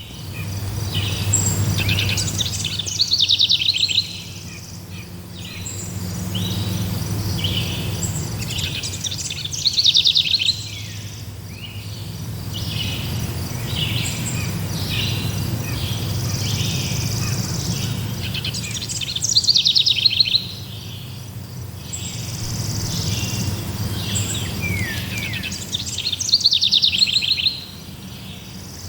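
Forest birdsong: one bird repeats a loud song phrase of rapid notes about every seven seconds, while other birds chirp in between, over a steady low rumble.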